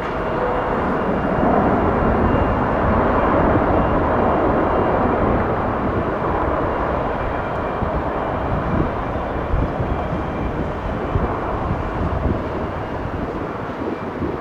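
Jet airliner engines running at high power as the plane passes: a broad roar that builds over the first couple of seconds, peaks, then slowly fades, with low rumbling underneath.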